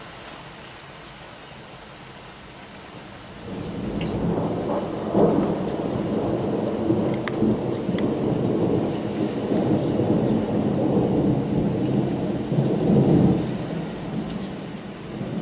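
Rain falling steadily; about three and a half seconds in, a long roll of thunder rumbles in and keeps going, swelling twice.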